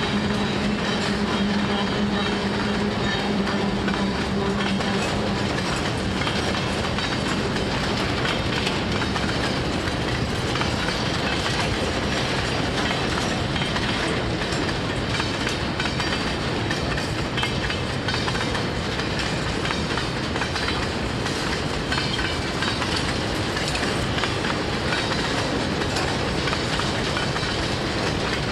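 Freight train wagons rolling past on the rails, a steady, dense rumble and clatter of wheels. A low steady hum heard at first fades out about five seconds in.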